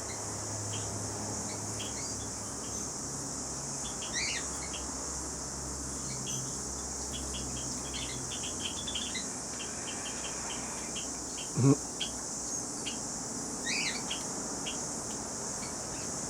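Small birds chirping in short scattered notes, with two brief sweeping calls about four seconds in and again near the end, over a steady high insect drone. A single sharp thump stands out about two-thirds of the way through.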